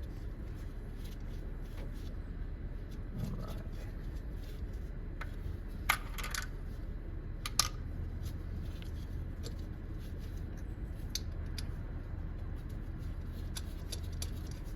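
Scattered metal clicks and clinks from a wrench and bolts being worked on an engine's intake, over a steady low hum. Two sharper clinks come about six and seven and a half seconds in, the first ringing briefly.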